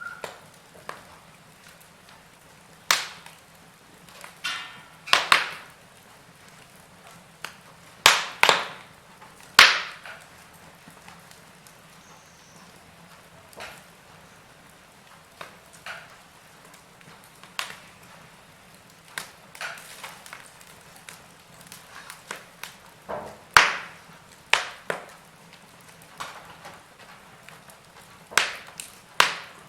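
Wood fire in a fireplace crackling: irregular sharp pops and snaps from the burning logs, some in quick pairs, over a faint steady hiss.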